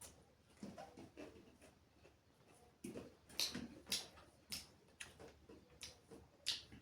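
Mouth sounds of someone eating chicken curry and rice: faint wet chewing with short clicks and smacks, a few sharper ones in the second half.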